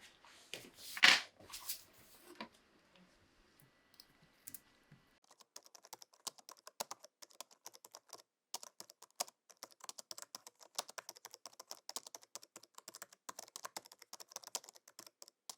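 A few louder knocks and scrapes, then a long run of rapid, irregular light clicks and taps from hard small parts being worked by hand.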